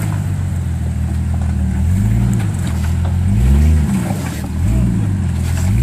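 Jeep Cherokee XJ engine running at low revs off-road, revved up and back down in four short throttle blips, the loudest about the middle.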